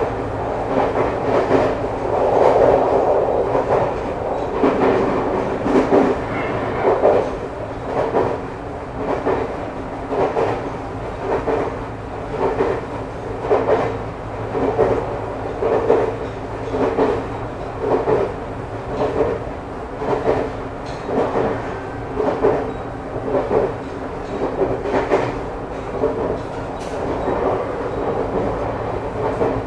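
Running sound inside a passenger car of a Nagano Electric Railway 2100 series electric train, the former JR 253 series, at speed. Its wheels clack over the rail joints about once a second over a steady hum.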